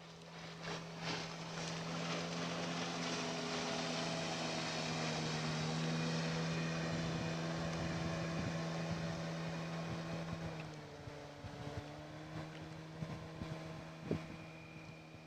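Outboard motor on an inflatable PVC boat running at a steady pitch, growing louder over the first few seconds and fading after about ten seconds. A few light knocks are heard near the end.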